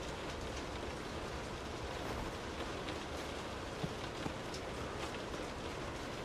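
Steady rain falling: an even hiss with scattered individual drops ticking now and then.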